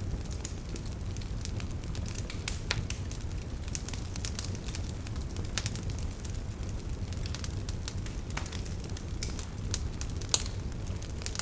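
Wood campfire burning with a steady low rumble of flame and scattered sharp crackles and pops of burning firewood, the loudest pop about ten seconds in.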